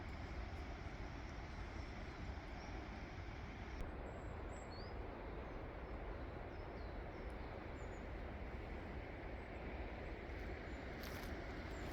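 Steady outdoor background noise with a low rumble of wind on the microphone, and faint, short bird chirps now and then. A few soft clicks come near the end.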